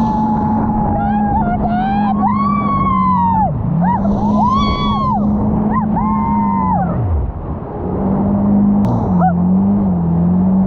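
Jet ski engine running, with a higher whine that rises and falls again and again. The engine pitch dips about three and a half seconds in, drops away about seven seconds in, then picks up again.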